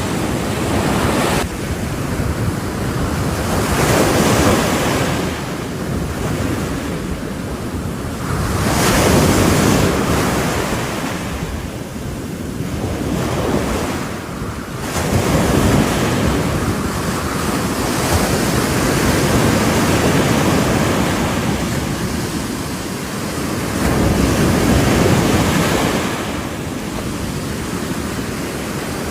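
Ocean waves breaking on the shore in repeated surges, each swell of surf rising and falling every few seconds, with wind buffeting the microphone.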